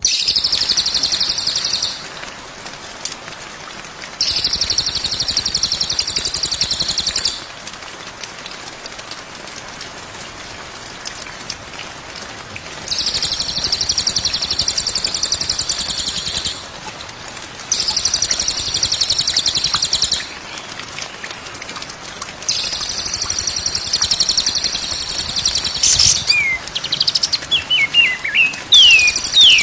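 A songbird singing long, very rapid high-pitched trills in bouts of a few seconds, broken by short pauses, with a few clear swooping whistles near the end.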